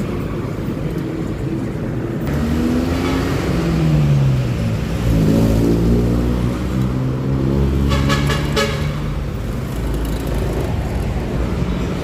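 Honda Click 125i scooter's single-cylinder engine on the move in traffic, its pitch rising as it speeds up a few seconds in, then holding steady. Just after the middle comes a brief rapid run of high beeps or clicks.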